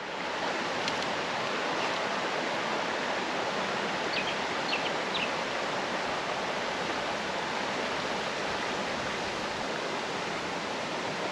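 Creek water rushing steadily over the stream bed. A few faint high chirps come about four to five seconds in.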